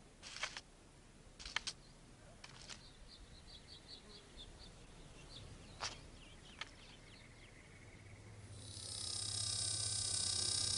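Faint natural sounds: scattered clicks and rustles, and a quick run of high bird chirps about three seconds in. Near the end a steady buzzing drone with many overtones swells in and becomes the loudest sound.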